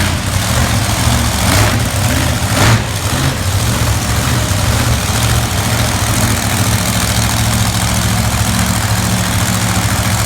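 Monster truck engine idling, a deep steady running sound with two short louder swells in the first three seconds.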